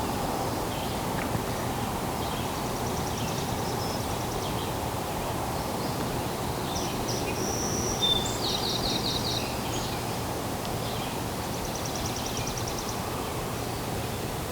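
Outdoor morning nature ambience: small birds chirping and trilling in short, high, rapidly repeated phrases over a steady low background rumble, with a brief sharp sound about eight seconds in.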